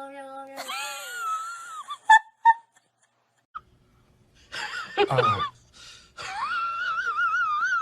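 Cats meowing and yowling: drawn-out calls and two short chirps in the first half, a brief pause, then a falling call and a long wavering yowl near the end.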